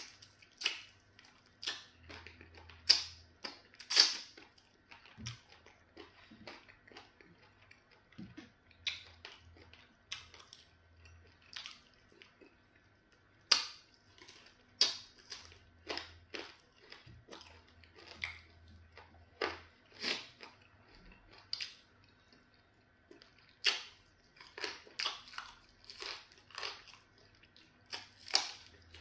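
Close-miked chewing and wet mouth smacks of a person eating pounded yam fufu with okra soup by hand: a string of irregular short sharp clicks, some much louder than others.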